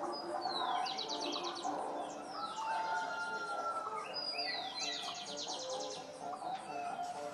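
A songbird singing. Twice it gives a high falling whistle that runs into a fast trill.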